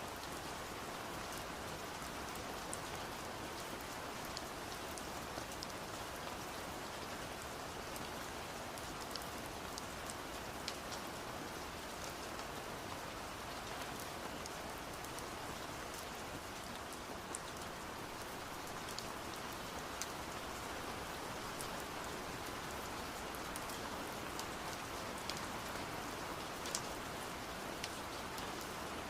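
Steady rain, with scattered sharp taps of raindrops hitting window glass.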